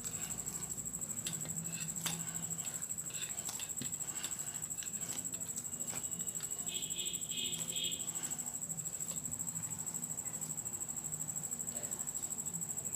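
Hands kneading a soft flour dough, with quiet patting, squishing and scattered soft clicks, over a steady high-pitched whine.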